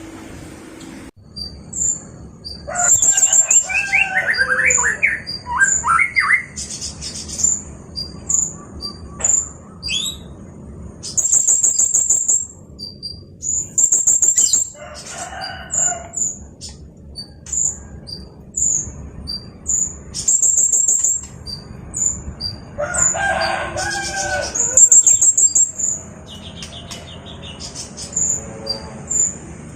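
Blue-crowned hanging parrot (serindit) singing: very high, thin, sharp chirps repeated throughout, broken by rapid trilled runs lasting about a second each. A few lower, fuller calls from another bird come in between.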